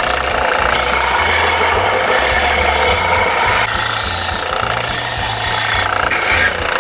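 A power tool grinding the freshly cut end of a metal exhaust pipe to clean it up: a loud, steady, harsh grinding noise whose tone shifts a few times as the tool works.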